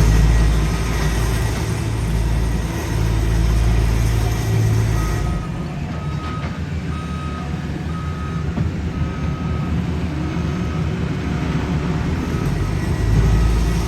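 Diesel engines of heavy paving equipment running with a deep rumble, which eases about five seconds in. A reversing alarm starts beeping then, about once a second, as a machine backs up.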